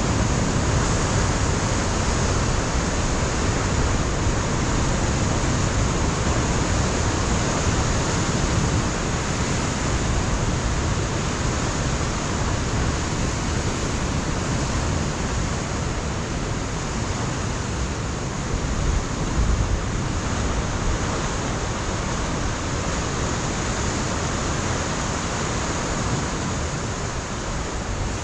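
Pacific surf breaking on a rocky coastline: a steady, even rush of wave noise. It swells briefly louder about two-thirds of the way through.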